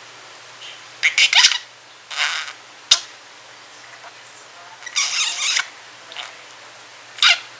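Pet budgerigar mumbling drowsily while trying to nap: short, scratchy bursts of soft chatter and chirps with pauses between, and a sharp click about three seconds in.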